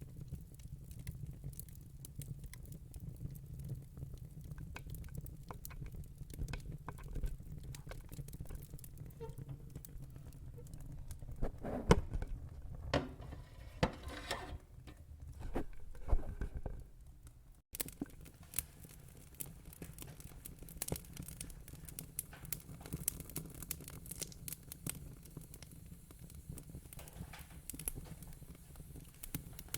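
Wood fire in a fire pit crackling, with many small sharp pops over a low steady rumble. A run of louder pops comes a little before the middle, and the sound cuts out for an instant soon after.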